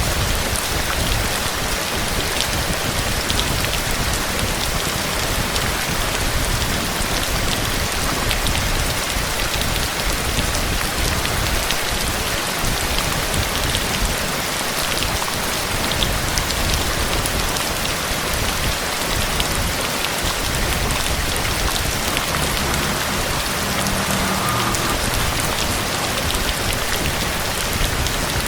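Heavy rain falling steadily, with a dense patter of individual drops hitting a surface.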